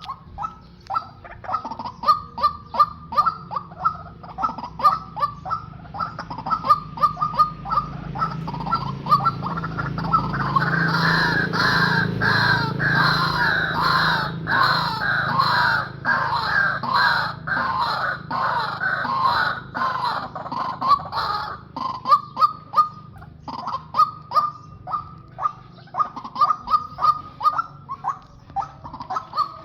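A pair of white-breasted waterhens calling: a long run of harsh repeated notes, two or three a second. About a third of the way in the calls thicken into a louder, denser overlapping chorus for some ten seconds, then thin back to the single series.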